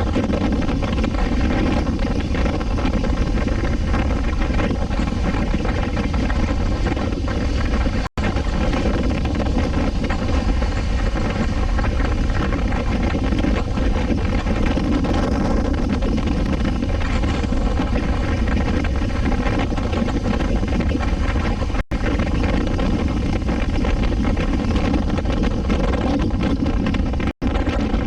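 Suzuki V-Strom 250SX's single-cylinder engine running steadily while the motorcycle cruises, with road and wind noise underneath. The sound cuts out for an instant three times.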